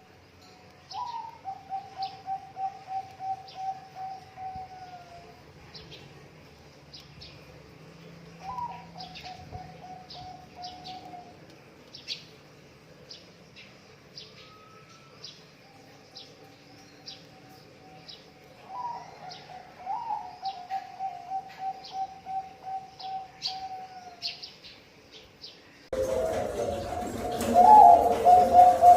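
Zebra dove (perkutut) cooing: three long phrases, each a short rising note running into a fast rattling trill that drops at the end. Thin high chirps from small birds run through it. About 26 s in, the sound turns suddenly louder and the cooing goes on over a denser background.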